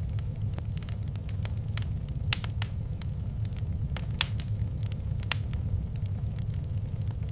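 Wood fire crackling in a fireplace: irregular sharp snaps and pops over a steady low rumble, with a few louder pops.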